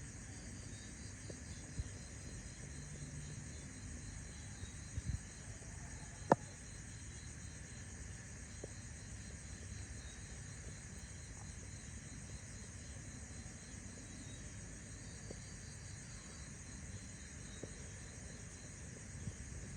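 Steady high-pitched insect chirring in the background, with a few faint clicks and one sharper click about six seconds in.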